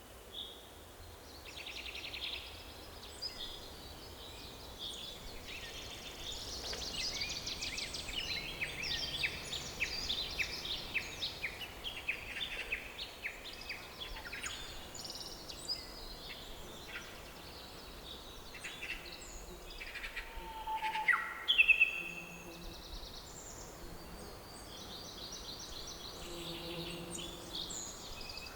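Several songbirds singing and calling in a forest: many overlapping chirps and rapid trills, over a faint low background rumble. About three-quarters of the way through, one louder, sliding call stands out.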